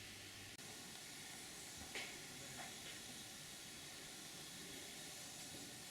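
A steady, faint hiss, with a couple of small clicks about two seconds in.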